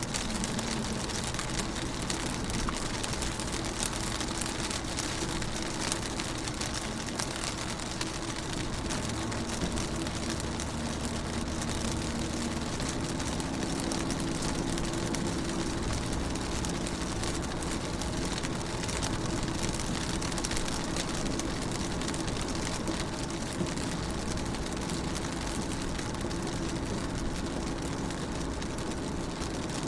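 Rain falling steadily on a car's windows and body, heard from inside the car as a dense patter over a low steady hum.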